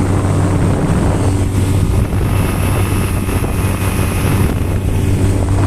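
Honda 20 hp four-stroke outboard motor running steadily at speed, with wind and water rush.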